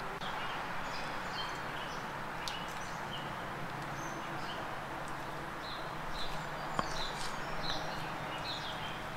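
Faint, short bird chirps scattered over a steady background hiss, coming more often in the second half, with one sharp click about seven seconds in.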